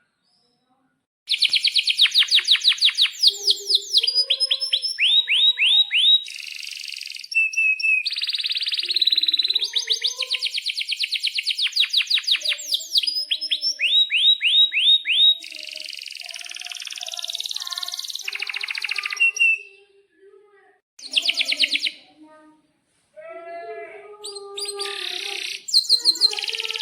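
Domestic canary singing a long, loud song of fast trills, rolls and runs of rapid repeated chirps, in phrases with short breaks, starting about a second in.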